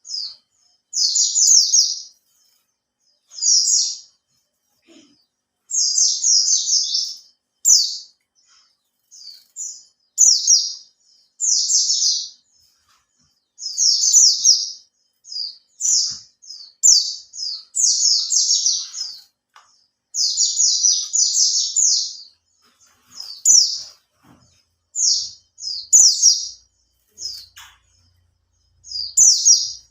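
Captive white-eye (pleci) singing vigorously: rapid, high-pitched twittering phrases about a second or so long, repeated with short pauses between them.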